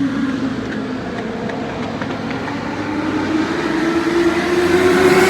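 A pack of Legends race cars running together, their engines a steady drone that rises in pitch and grows louder over the last couple of seconds as the field comes closer.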